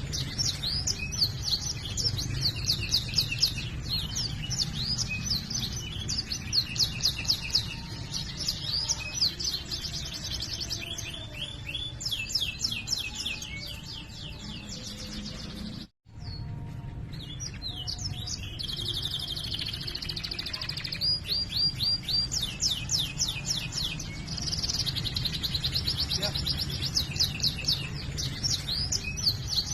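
Domestic canary singing fast rolling trills and strings of rapid repeated chirp notes, over a steady low background hum. The song cuts out abruptly for a split second about halfway through, then resumes.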